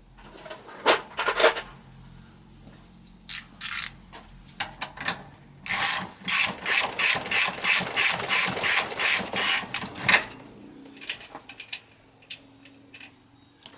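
Ratchet handle tightening a large nut: a few loose clicks, then a steady run of about three ratchet clicks a second for some four seconds.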